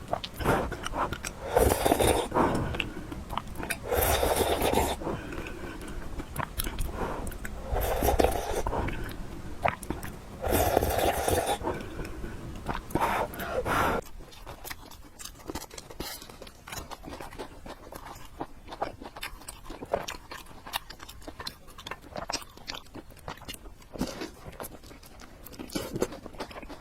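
A person eating noodles close to the microphone, chewing and biting. There are several louder bursts of about a second each in the first half, then quieter, steady chewing with small wet clicks.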